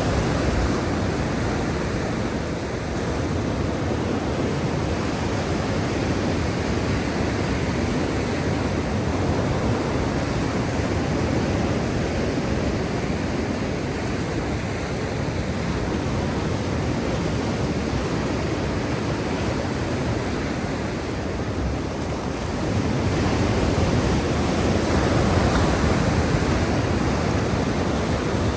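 Sea waves surging and washing in: a steady rush of surf that swells a little louder near the end.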